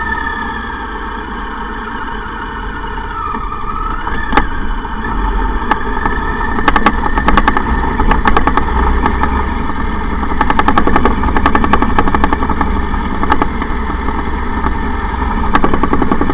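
Motorcycle engine running under way, its pitch rising and levelling off a few seconds in. Rapid clicks rattle over it through much of the second half.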